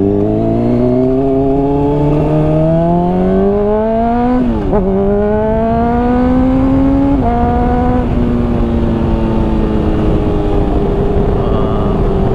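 Honda CBR600RR inline-four with a slip-on exhaust accelerating with a rising note, then upshifting with a sharp drop in pitch about four and a half seconds in. It climbs again, upshifts once more about seven seconds in, and then settles to a nearly steady cruise. Wind rushes over the helmet microphone underneath.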